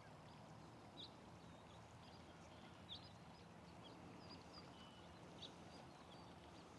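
Near silence: faint outdoor ambience, a low steady hiss with scattered brief high chirps from small birds.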